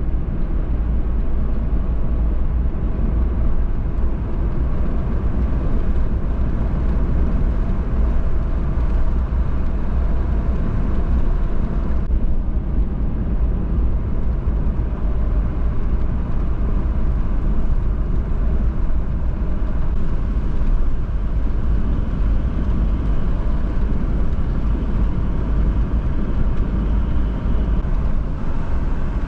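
Suzuki Jimny being driven: a steady, low engine and road rumble that holds even throughout.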